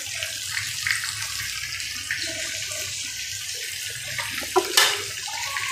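Chicken and halved tomatoes sizzling in oil in a frying pan, a steady hiss with a few small pops, one sharper near the end.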